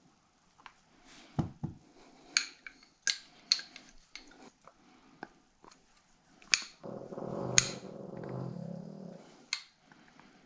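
Sharp clicks and light metallic clinks of small engine parts and tools being handled, with a couple of heavier knocks about a second and a half in. About two-thirds of the way through, a louder low grumbling sound lasts roughly two seconds.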